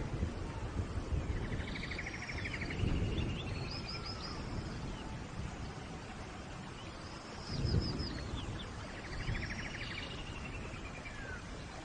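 Steady rain hiss with a songbird singing the same short phrase over and over, arching whistled notes followed by a buzzy trill, every few seconds. A low rumble swells briefly about three seconds in and again about eight seconds in.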